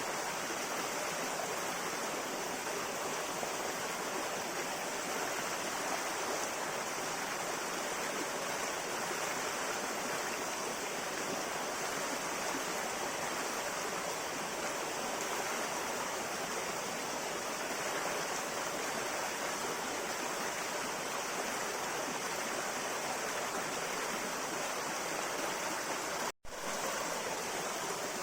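River water flowing, a steady rushing that stays even throughout and drops out for an instant near the end.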